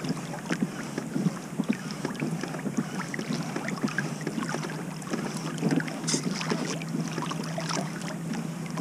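Kayak crabbing on a trotline: the wet line being worked along from the kayak, with irregular small splashes and clicks over a steady low hum.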